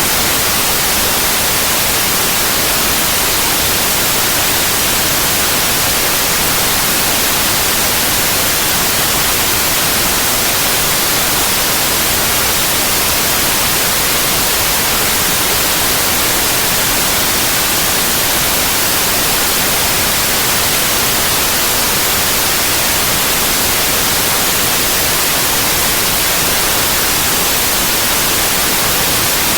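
Synthetic white noise: a loud, steady, even hiss with no changes or interruptions.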